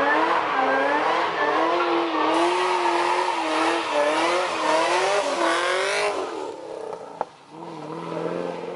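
High-performance car engine revving hard, its pitch wavering up and down with the throttle over a hiss of tyre noise, as in a burnout or drift. It drops off abruptly about six seconds in, leaving a lower, steadier engine note, with one sharp click just after.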